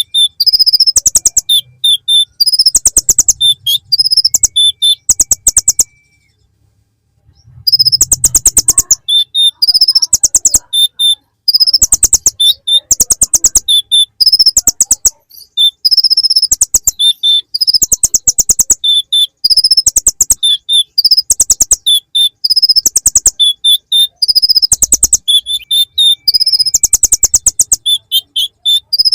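Kolibri ninja (konin) sunbird singing a long run of rapid, buzzy high trills and short chips, phrases copied from the bar-winged prinia (ciblek). The song breaks off once for about a second and a half, six seconds in, then carries on.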